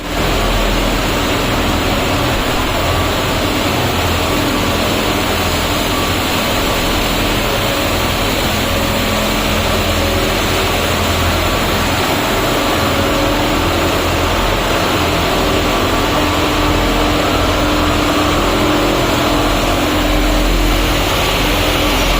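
Mini-loader's engine running steadily at working revs, with a faint steady whine on top.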